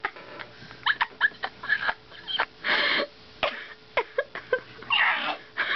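A person making a string of short, high-pitched squeaks and whimpers, like a dog, with a breathy hiss about halfway through and a wavering wail near the end.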